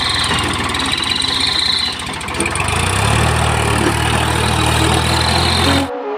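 Heavy diesel engine running under load. Its low hum grows stronger about three seconds in, and the sound cuts off abruptly near the end.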